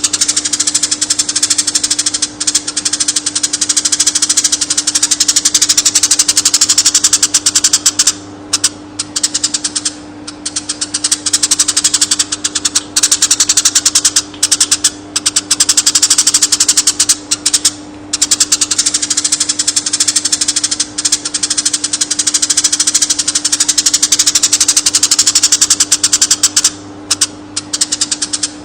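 A konin, a small songbird, singing a rapid, dense chattering trill of high notes in long runs broken by brief pauses, over a steady low hum.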